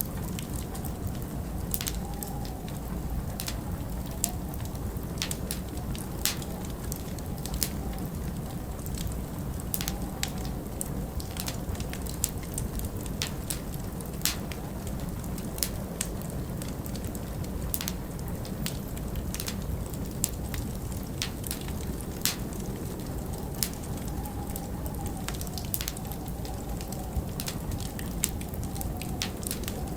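Log fire crackling, with frequent sharp pops over a steady low rumble of wind. A faint wavering wind howl rises about two seconds in and again near the end.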